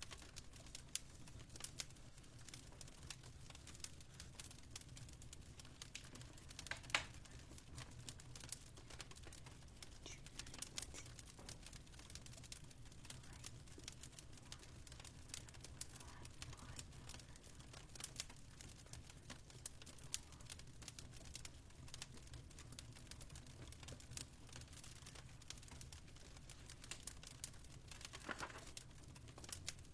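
Faint crackling of a fireplace: irregular sharp pops and snaps, a louder snap about seven seconds in, over a steady low hum.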